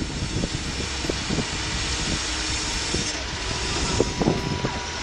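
A vehicle running steadily, with an even engine-and-road noise and a faint steady tone.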